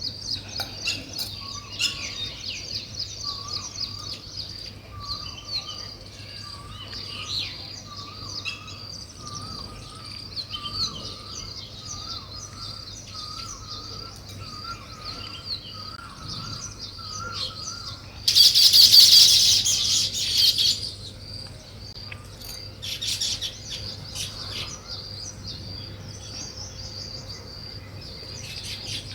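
Weaver birds chirping in a steady stream of short, high calls, with a lower warbling call repeating over and over through the first half. About eighteen seconds in, a loud harsh rasping burst lasts about two seconds, followed by a few shorter rasps.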